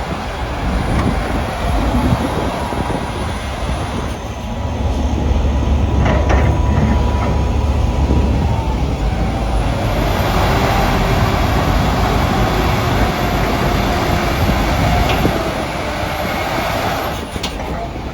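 A heavy vehicle running: a loud, steady low rumble with a mid-pitched whine that wavers and shifts in pitch.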